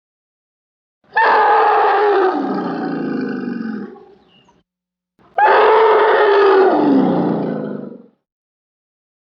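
Lion roaring: two long, loud calls, each about three seconds and falling in pitch as it fades, the second starting about five seconds in.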